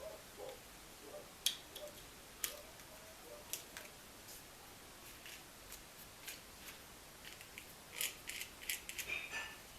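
Tools and small metal parts being handled: scattered light clicks and clinks, with a denser run of clicks near the end.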